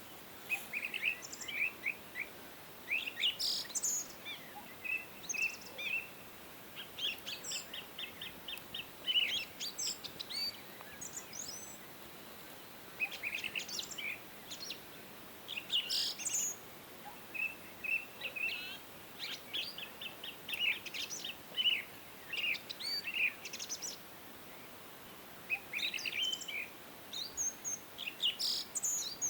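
Birds singing and chirping: short calls, quick trills and runs of rapid notes, with a brief lull about halfway through, over a faint steady hiss of outdoor background.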